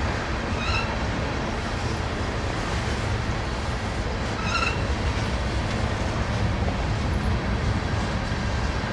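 Freight cars rolling past on steel rails, the tail of a mixed freight train: a steady low rumble throughout, with two brief high squeaks, one near the start and one about midway.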